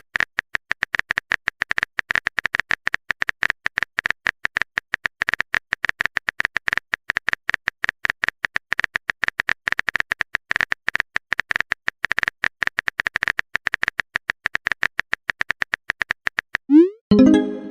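Fast, irregular keyboard typing clicks, the typing sound effect of a chat story. Near the end, a short rising message chime.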